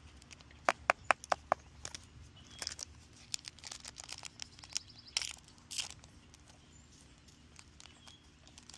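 The foil wrapper of a trading-card booster pack crinkling and rustling as it is handled. About a second in come five quick, sharp clicks.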